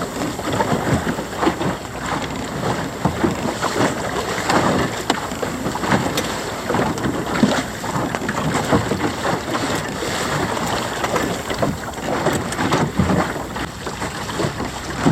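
Water rushing and slapping irregularly against the hull of a Mirror sailing dinghy under way, with wind buffeting the microphone.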